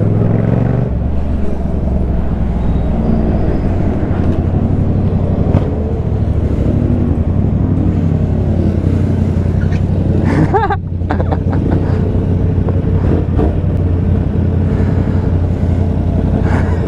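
Motorcycles running steadily on the road, a deep continuous engine and road rumble with no break.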